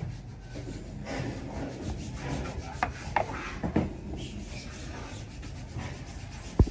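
Scraping and rubbing, with a few sharp clicks partway through and one loud knock near the end.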